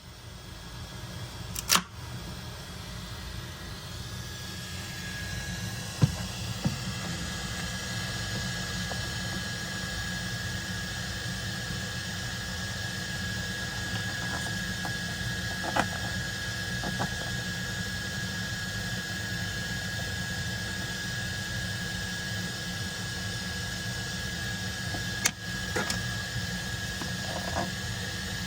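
A small motorised tool running steadily with a whirring hiss and a steady whine, building up over the first few seconds, with a few sharp clicks on top, about two seconds in, about six seconds in and near the end.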